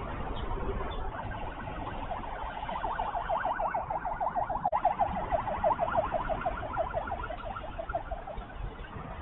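Crested goshawk calling: a long series of rapid, evenly repeated notes, about five a second, swelling louder toward the middle and then fading away.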